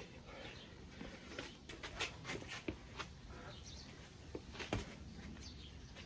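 Irregular light clicks and taps, some close together, with a few faint high chirps between them.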